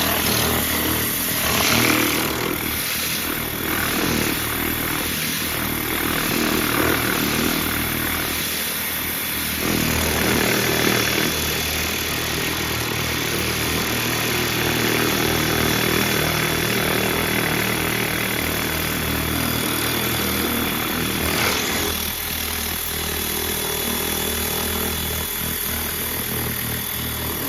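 2200 PSI pressure washer running, its motor humming steadily under the loud hiss of a turbo nozzle's spray hitting a truck's body. The spray swells and eases slightly as the jet moves over the panels.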